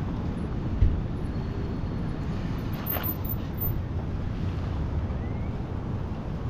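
Wind rumbling steadily across the microphone, with one short thump a little under a second in.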